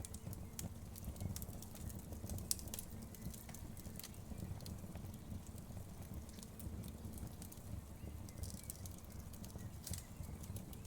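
Wood fire crackling, with frequent irregular sharp pops and snaps of burning logs over a steady low rumble of the flames.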